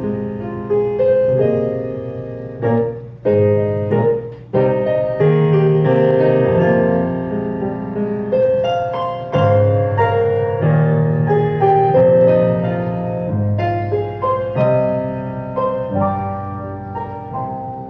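Soft piano background music, slow chords with a low bass line.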